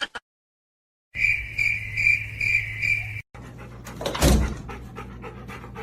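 A steady, high chirping trill pulsing about twice a second, like a cricket, then a cut to a dog clip with one loud sudden bark-like sound about four seconds in.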